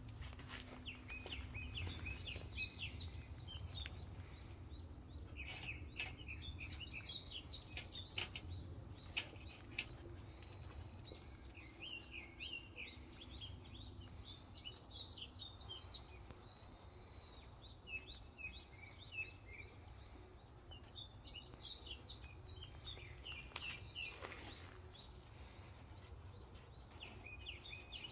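Small birds chirping in runs of quick high notes, on and off, over a faint low rumble, with a few light clicks.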